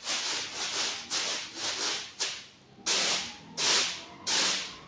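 Repeated rubbing or scraping strokes, about seven in a steady rhythm, the later ones louder.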